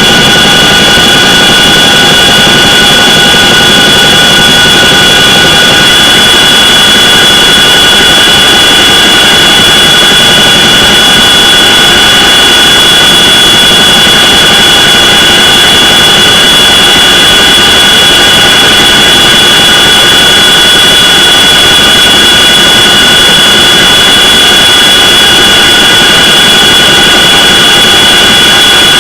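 CH-47 Chinook twin-turbine helicopter running, very loud and steady, with a constant high turbine whine over the rotor and engine noise.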